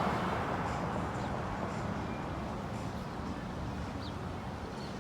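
Outdoor street ambience: traffic noise that fades away in the first second or so, as from a passing vehicle, then a steady low rumble with a few faint high chirps.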